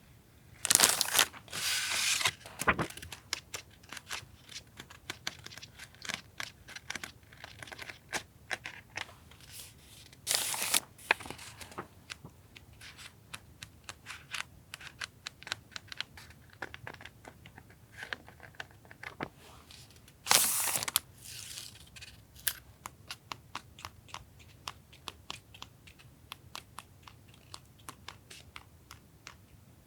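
Paper and plastic wrapping of stationery items being handled and torn open: crinkling and rustling with many small taps and clicks, and three louder tearing rustles, near the start, about a third in and about two-thirds in.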